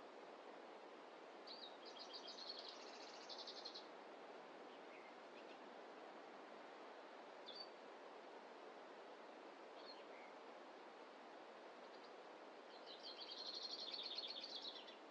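A small songbird sings two fast trilled phrases, one near the start and one near the end, with a few short single chirps in between. Under it is a steady, faint rushing background noise.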